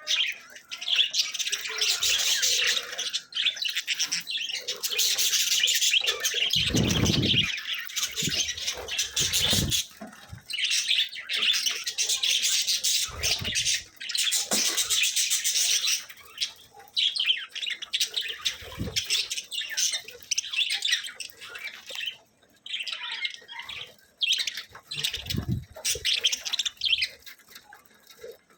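Budgerigars chattering, warbling and chirping in a rapid, continuous stream, with a few brief low thumps along the way.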